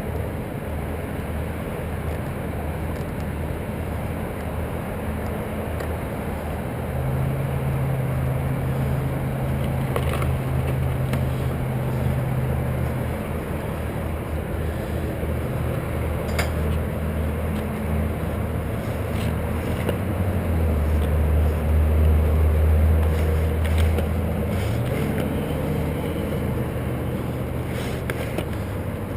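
Engine of the hoisting machine running steadily, its note stepping up about seven seconds in, then dropping deeper and louder for a few seconds past the two-thirds mark before gliding back up.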